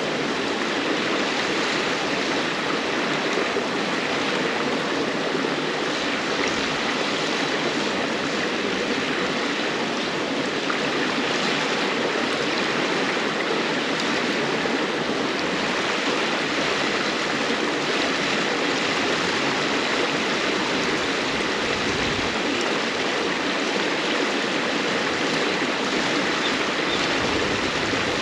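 River water babbling and rushing steadily over stones.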